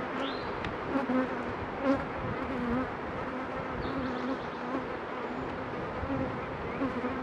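Honeybees buzzing around an opened hive: a steady hum, with a couple of faint clicks about one and two seconds in.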